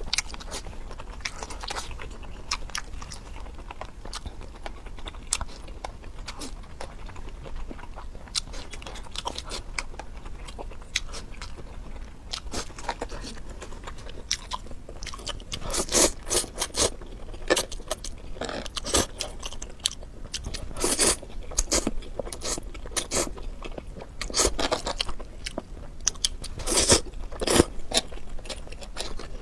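Close eating sounds: chewing and biting into spicy instant noodles, with a fork scraping and clicking on the tray. The bursts grow louder and more frequent from about halfway through.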